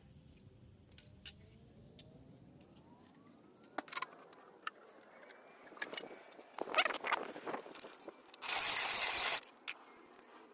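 Light metallic clicks and clinks of a piston ring and tools being handled, then about a second of harsh rasping near the end as the ring's end is filed down to set its gap.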